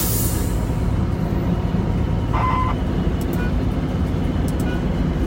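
Loaded log truck's diesel engine running steadily with a low rumble, with a brief squeal about two and a half seconds in.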